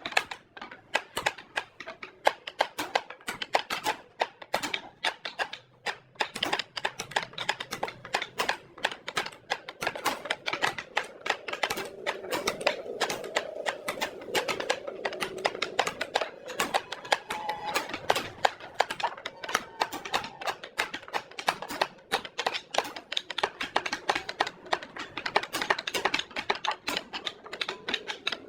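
Dense, irregular clicking and tapping, many clicks a second.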